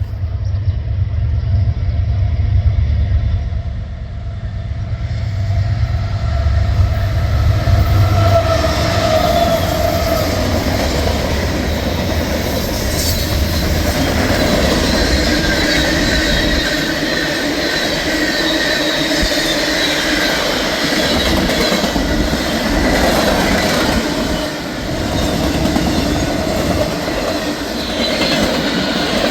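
Fast mixed freight train passing close by. A heavy low rumble at first, then from about eight seconds in the cars roll by with steady wheel squeal and rolling noise.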